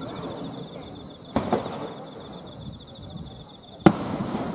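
Two firework bursts: a softer bang about a second and a half in and a sharper, louder one near the end, each trailing off in a rolling echo. Insects chirp steadily throughout.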